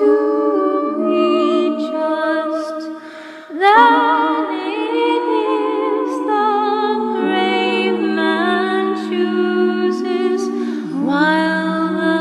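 A cappella choir singing a hymn in several parts, with held chords and vibrato. There is a short break for breath about three seconds in, then a new phrase begins, and another starts near the end.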